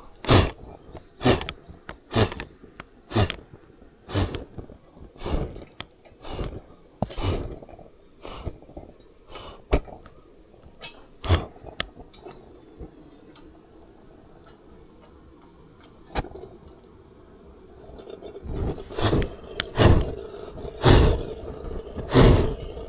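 Repeated sharp knocks and clinks, about one a second, easing off to a quieter stretch midway, then heavier knocks near the end.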